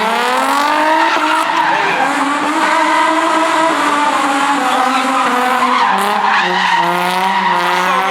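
A car's engine revving hard with its tyres squealing, as in a burnout or drifting. The pitch rises, holds high, dips about two-thirds of the way through and climbs again.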